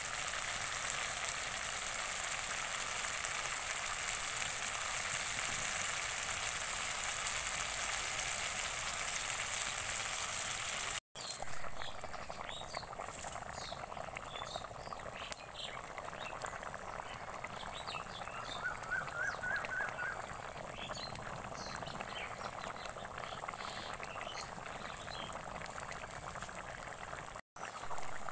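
Chicken feet frying and sizzling in a kadai over a wood fire. After a cut, the curry gravy simmers with small bubbles popping, and a short trilling call comes about two-thirds of the way in.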